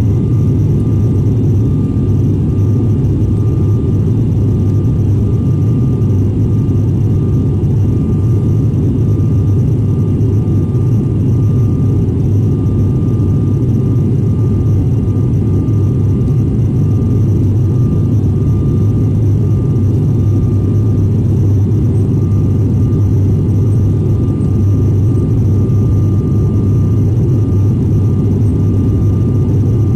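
Airliner on its landing approach: a steady low rumble of engines and airflow, unchanging throughout, with a faint thin whine above it.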